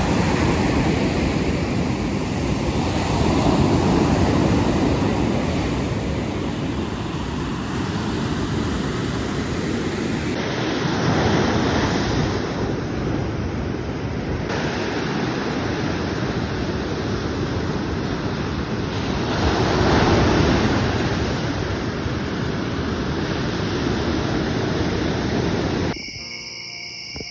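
Ocean surf washing onto a beach, swelling louder about every eight seconds, with wind on the microphone. Near the end the surf cuts off.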